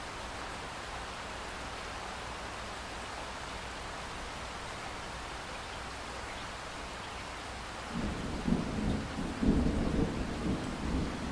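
Steady hiss of falling rain; about eight seconds in, a low, rolling rumble of thunder breaks in loudly and keeps going.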